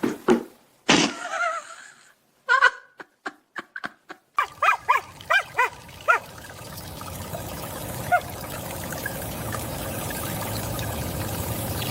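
A dog barking or yipping about five times in quick succession, after a few sharp knocks, followed by a steady rushing noise that slowly grows louder.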